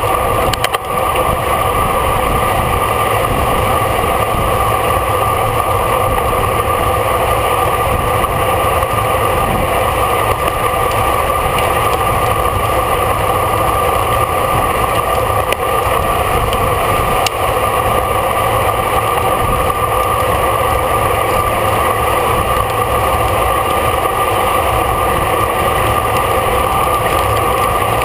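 Steady wind and road rush from a racing bicycle in motion, picked up by the bike-mounted camera's microphone: an unbroken noise with a low rumble and a constant hum.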